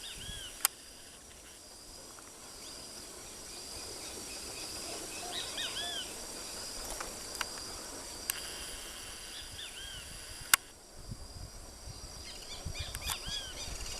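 Saffron finches giving short arched chirps in small groups every few seconds, over a steady high hiss of insects. A sharp click sounds a few times, loudest about ten and a half seconds in, followed by low rumbling.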